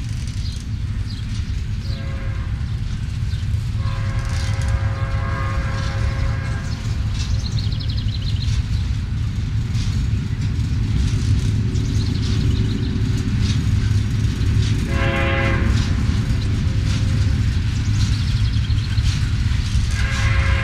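BNSF diesel freight trains running on the main line, a steady heavy rumble. Several pitched, chord-like notes sound over it: a short one about 2 s in, a longer one from about 4 to 6 s, and short ones near 15 s and near the end, fitting a locomotive air horn.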